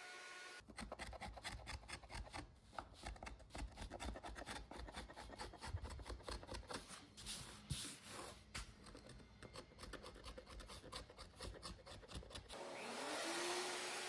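Hand tool working wood in quick, uneven scraping strokes. Near the end it stops and an electric motor starts, rising in pitch and then running steadily.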